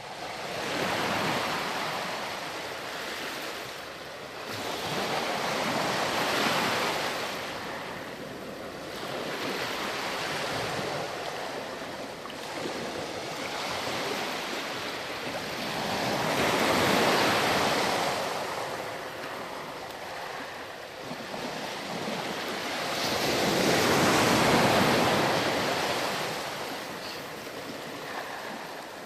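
Ocean surf washing up on a sandy beach, breaking and drawing back in slow, repeated surges, the loudest two about two-thirds of the way in and near the end.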